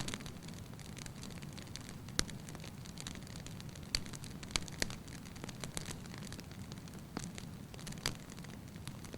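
Firewood burning in a fireplace: a steady low rumble of flame with scattered sharp crackles and pops, a few of them louder.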